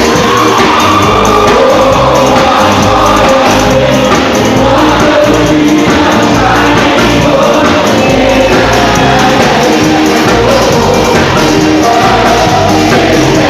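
Live gospel worship music, loud and steady: a band with a bass line under voices singing together, with some shouting from the crowd.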